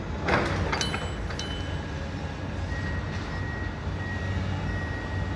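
Demolition excavator's diesel engine running steadily while it pulls at roof structure, with sharp metallic clanks and short screeches in the first second and a half. A thin, steady high tone comes in about halfway through.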